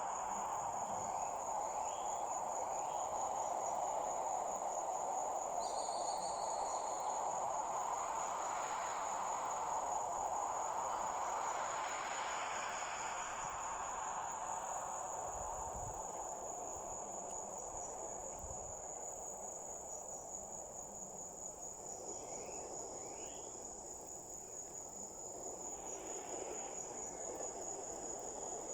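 Crickets trilling in one steady, unbroken high note, over a soft rushing background noise that swells and then eases off.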